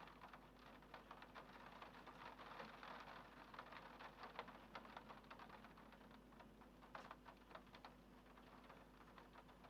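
Faint rain, with drops tapping irregularly and densely on a window pane.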